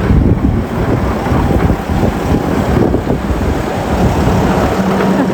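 Large snow-clearing truck's engine running close by, a loud low rumble, with wind buffeting the microphone.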